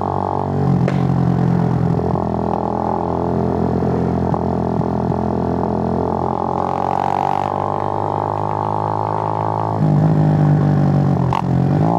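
Suzuki GN125's air-cooled single-cylinder four-stroke engine running under way, a steady droning note. About ten seconds in, the note changes and gets louder.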